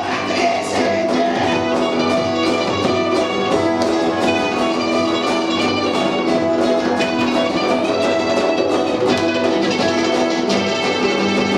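Punk rock band playing live, an instrumental stretch led by guitar with no singing heard.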